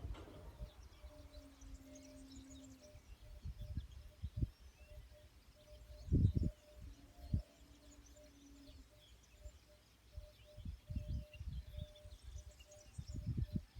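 Quiet outdoor ambience with faint birds chirping throughout, broken by irregular low thumps or rumbles, the loudest about six seconds in.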